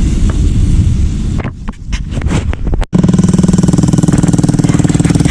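Heavy machinery engine running with a low rumble; just before the halfway point the sound breaks off sharply and comes back as a fast, even pulsing with a steady droning hum.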